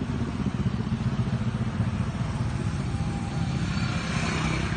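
Motorcycle running on the road, a steady low rumble.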